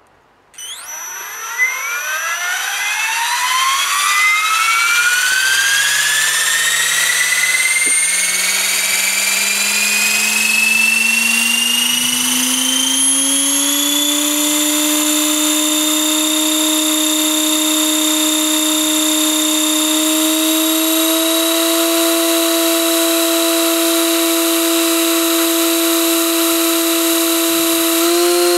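Align T-Rex 700E DFC electric RC helicopter spooling up from rest: the motor and rotor whine rises in pitch over about fourteen seconds, then holds steady at headspeed, stepping up slightly twice later on. Its steady hum is what the owner suspects is the dreaded tail hum, with slightly marked Rail rotor blades after a minor crash.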